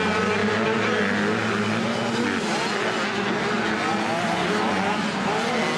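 Several 85cc two-stroke motocross bikes racing together, their engines revving up and down with pitches overlapping.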